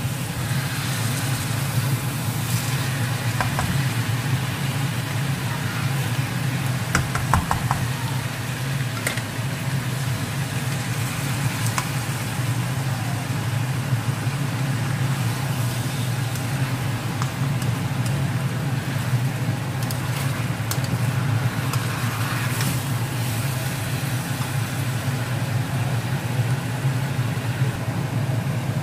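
Chicken pieces sizzling in a frying pan over a steady low mechanical hum, with a few clicks of the spatula against the pan about seven seconds in.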